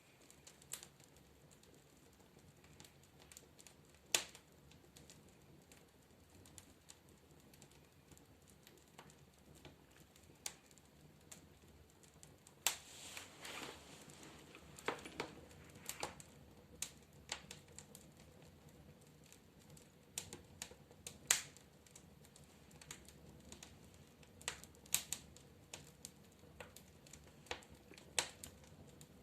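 Faint wood fire crackling in a fireplace stove: scattered, irregular sharp snaps and pops, some louder than others, over a quiet steady background.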